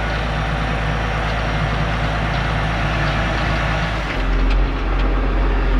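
Big John Deere wheel loader's diesel engine running steadily, with a low hum that gets deeper and a little louder about four seconds in.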